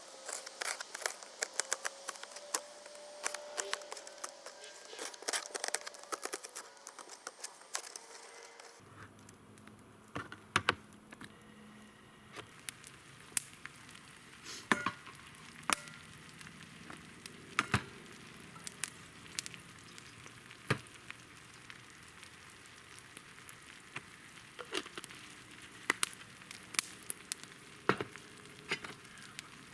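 Food sizzling in a hot pan, with frequent sharp pops and crackles over a steady hiss. The background changes abruptly about nine seconds in.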